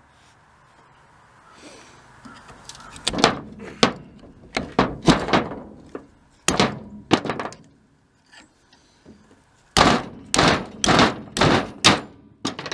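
Sharp metal knocks, about a dozen in two runs, the second run quicker: tapping a stuck vane out of the rotor of a Blackmer TDX2D vane pump.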